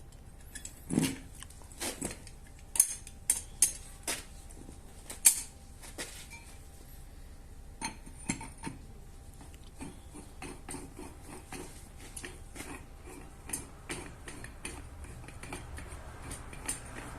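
Metal tools and parts clinking and knocking as they are handled, with a few sharper knocks in the first five seconds or so and a run of lighter, quicker ticks and clinks later on.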